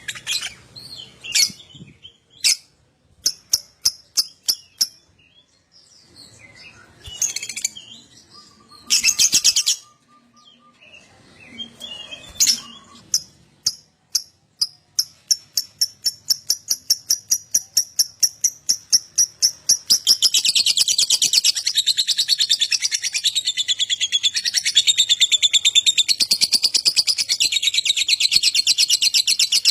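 Lovebird calling: scattered sharp chirps and short squeaky phrases, then a run of rapid repeated notes that speeds up and becomes a long, continuous chattering trill, the 'ngekek' that lovebird keepers prize.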